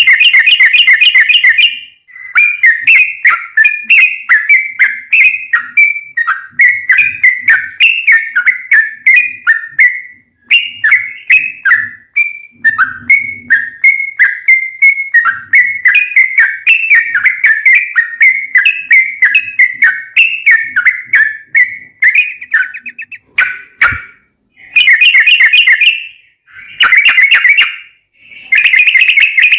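Yellow-vented bulbul (trucukan) song: a long, rolling run of short bubbly falling notes at about two a second, opening and closing with short rapid chattering bursts. It is a loud recorded lure song played to make other bulbuls answer.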